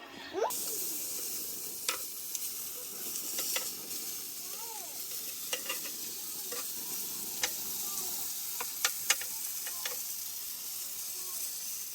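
Steady sizzling hiss with scattered sharp pops, cutting in abruptly about half a second in.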